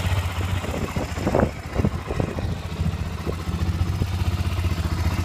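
Honda 400EX ATV's single-cylinder four-stroke engine running steadily at idle, with a few short knocks or rattles between about one and three seconds in. It runs evenly, which the owner calls running great.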